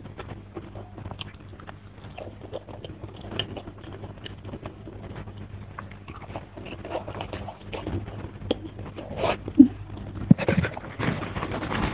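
Close-miked eating: biting and chewing a piece of boiled chayote dipped in chili sambal, with many small wet mouth clicks and smacks. The chewing grows louder and denser near the end.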